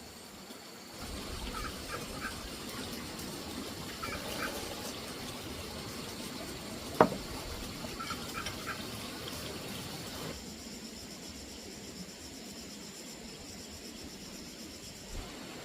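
Steady high-pitched insect drone with a few short bursts of bird calls and one sharp click about seven seconds in.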